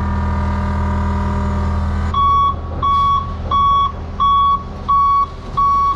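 A truck's engine runs steadily. About two seconds in, its backup alarm starts beeping at an even pace, roughly one beep every 0.7 seconds, as it reverses.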